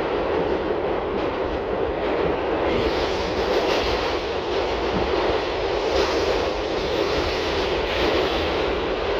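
R62 subway car running along the track, a steady loud rumble of wheels on rail heard from on board.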